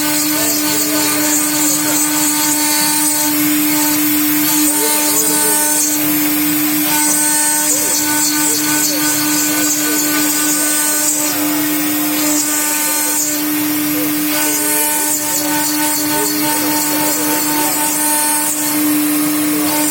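Stone CNC router running with a steady whine, a harsher high cutting hiss coming and going in passes a second or two long as the cutter works the stone.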